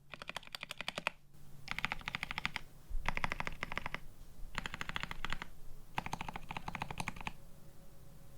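Rapid typing on a plateless, PCB-mounted GRID 650 mechanical keyboard with Paco tactile switches and GMK Olivia++ keycaps: five quick runs of keystrokes with short pauses between them, stopping about seven seconds in.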